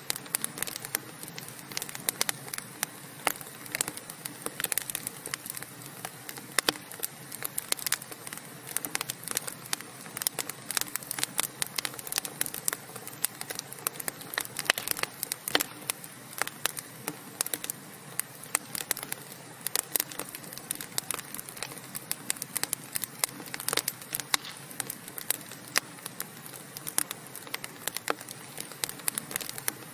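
Wood fire burning in a fireplace: a steady low hiss of flames with frequent sharp, irregular crackles and pops from the burning logs.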